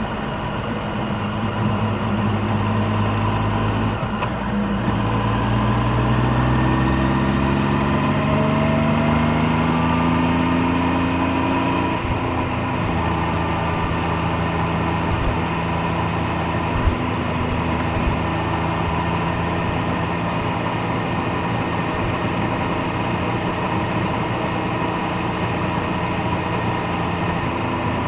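Triumph Street Triple 765 Moto2 Edition's three-cylinder engine and exhaust under way: the engine note climbs steadily for several seconds as the bike accelerates, drops abruptly at an upshift near the middle, then holds a steady note while cruising.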